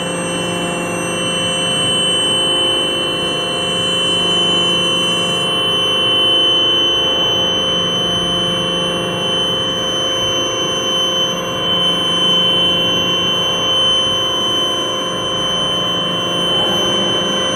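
Pipe elbow making machine running: a steady hum with several constant whining tones held unchanged.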